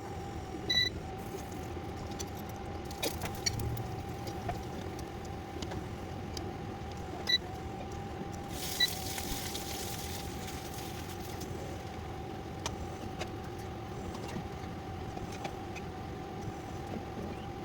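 Potato filling being cooked in a pan over a steady hum: a few sharp metallic clinks of a utensil against the pan, and a brief hiss about nine seconds in.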